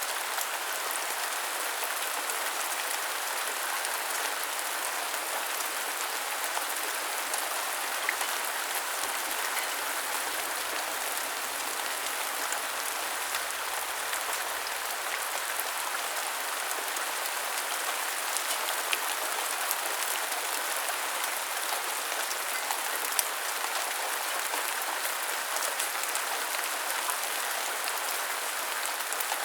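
Steady rain falling and pattering on hard surfaces, an even hiss with scattered sharper drop ticks.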